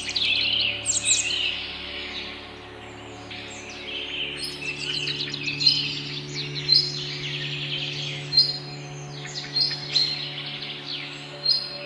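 Several birds chirping and calling together in a morning chorus, with a short high whistle repeated about every second and a half in the second half. A steady low hum runs underneath.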